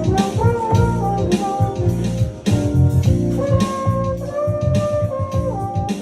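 Jazz-funk band sound: a trombone plays held, sliding melody notes over electric piano, keyboard bass and a drum-machine beat.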